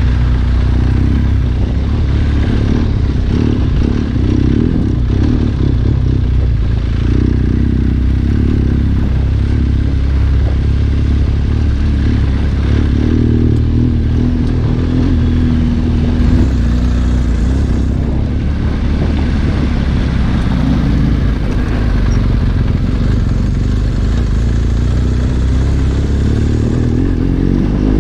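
Trail motorcycle engine running steadily while riding, a deep drone that holds level throughout.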